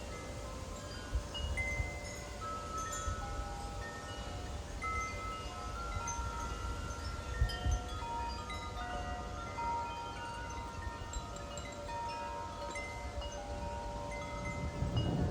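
Wind chimes ringing irregularly in gusty wind, many sustained metallic tones overlapping, over a low rumble of wind on the microphone.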